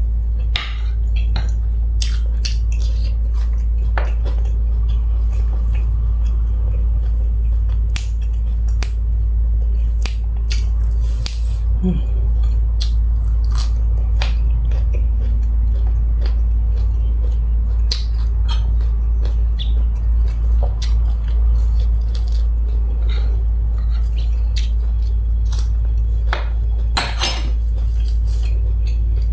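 Close-up eating sounds: chewing and mouth smacks of spicy grilled-beef salad with sticky rice, with scattered sharp clicks of a spoon. A cluster of louder clicks comes near the end. A steady low hum runs underneath.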